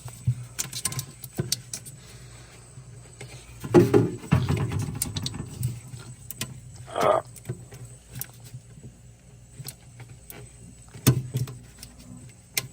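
Handling noise of a compact fridge's parts and packaging: scattered clicks and taps, a louder stretch of rustling and scraping about four seconds in, and a sharp knock near the end.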